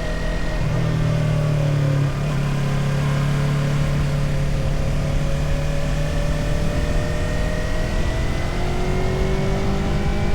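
Motorcycle engine running steadily under way, with a brief dip about two seconds in and its pitch rising gradually near the end as it accelerates.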